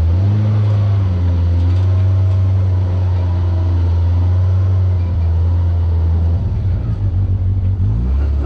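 Off-road vehicle engine running at low speed under load while rock crawling, a steady low drone that rises briefly just after the start. About six and a half seconds in it turns rough and choppy.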